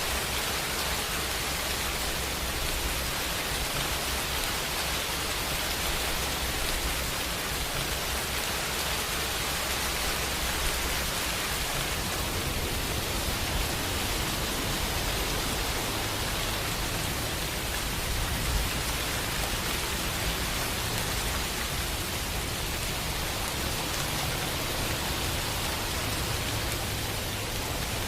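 Steady rain falling, an even hiss with no single drops or thunderclaps standing out.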